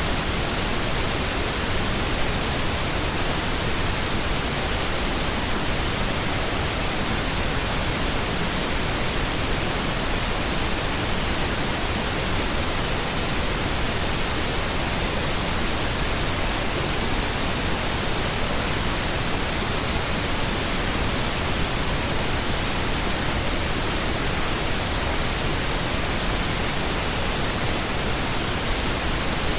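Steady pink noise: an even, unchanging hiss spread across all pitches, weighted toward the low end, with no variation.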